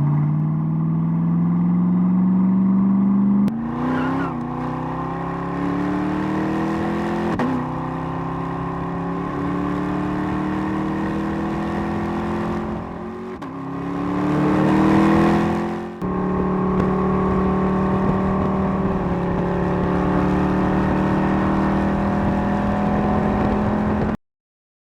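Gen 6 LS6 small-block V8 accelerating hard through the gears: the revs climb and drop back at three upshifts, swell to their loudest, then after a sudden cut hold a steady high-revving drone that stops abruptly near the end.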